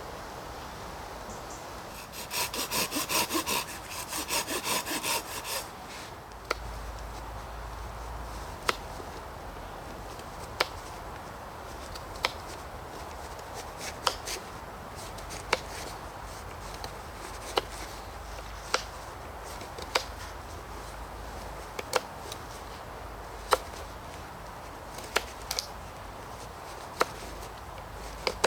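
A hand saw cutting through wood in two quick runs of strokes, then a string of single sharp knocks or snaps about every one and a half to two seconds.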